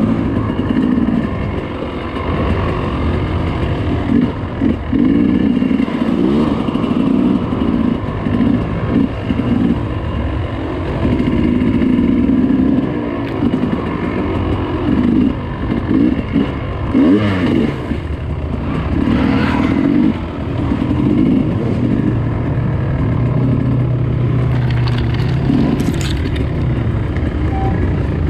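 Dirt bike engine being ridden along a trail, the throttle opened and closed over and over so that the revs keep rising and falling, with short drops where the rider backs off.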